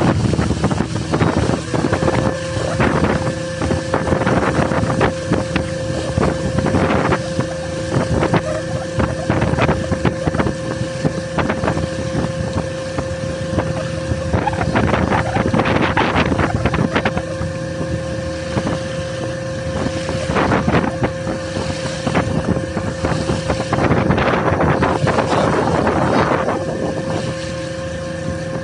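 A fishing boat's motor running steadily at sea, with wind buffeting the microphone and irregular short bursts of splashing and knocking over it.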